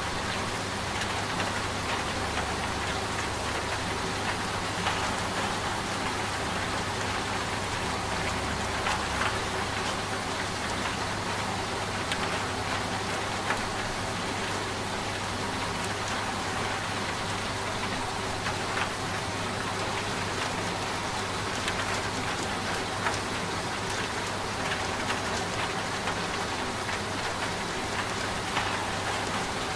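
Steady rain with scattered drop ticks, layered over the low, steady hum of a running washing machine.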